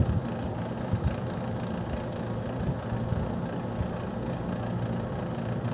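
Steady low mechanical hum from a running machine, with a few faint clicks of handling near the start.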